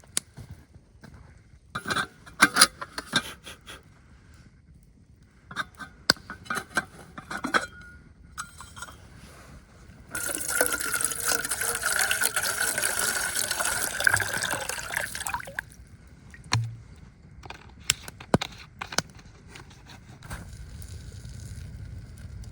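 Liquid poured steadily for about five seconds, starting about ten seconds in, after some short knocks and clicks of handling gear.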